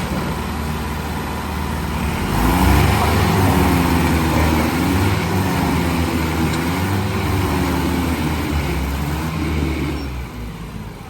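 Mahindra 575 tractor's diesel engine revving under load, its pitch rising and falling over and over as the stuck tractor struggles to get free. It grows louder about two and a half seconds in and eases off near the end.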